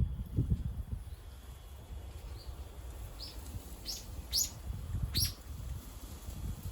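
A small bird chirping: about five short, high chirps, a few close together, from about two seconds in, over a low rumble of wind or movement.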